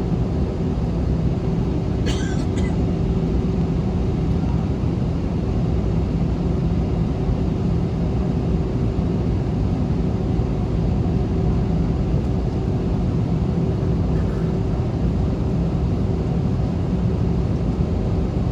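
Steady cabin noise inside an Airbus A321: the engines and the air system give a constant low rumble with a steady hum, neither rising nor falling. A brief faint click comes about two seconds in.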